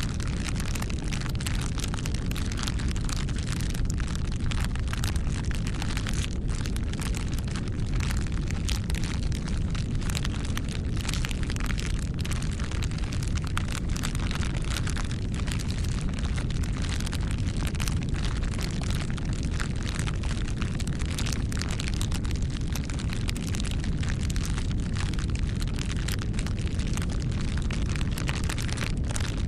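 Wood fire burning, a steady low rumble of flames with frequent small crackles and pops throughout.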